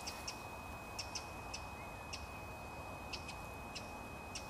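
A small bird chirping repeatedly outdoors, with short high chirps two or three a second at irregular spacing. Under it run a faint steady hiss and a thin steady high tone.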